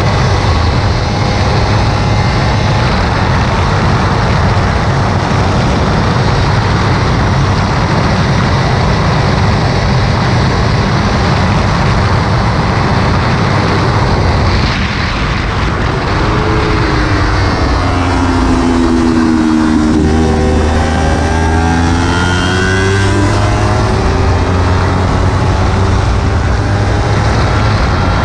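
Kawasaki Ninja 300's parallel-twin engine running hard at track speed. About halfway through, the engine note falls as the bike slows for a corner, then climbs again as it accelerates out.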